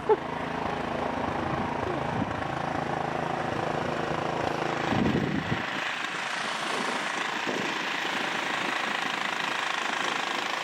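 Small engine running steadily with a rapid pulsing note. It cuts out about five and a half seconds in, leaving a steady hiss.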